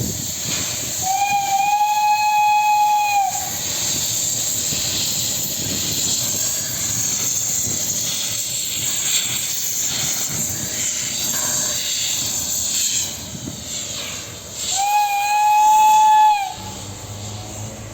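Narrow-gauge steam locomotive blowing its whistle twice, two steady blasts of about two seconds each, roughly twelve seconds apart, over a continuous hiss of escaping steam.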